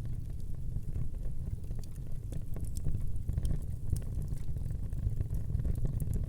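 Wood fire burning: a steady low rumble of flame with scattered sharp crackles and pops of burning logs.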